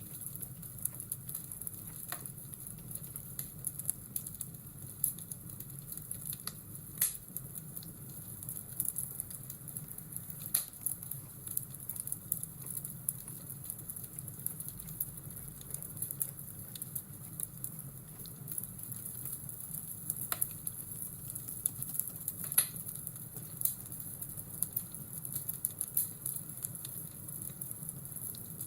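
Crackling fireplace ambience: a steady hiss with frequent sharp pops and crackles scattered through it.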